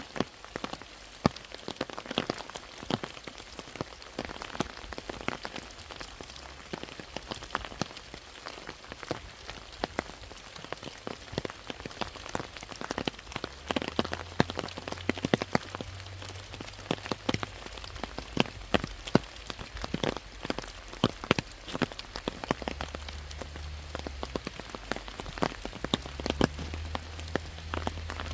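Rain falling, with large drops ticking irregularly and sharply on nearby surfaces over a steady patter. A low rumble comes and goes in the second half.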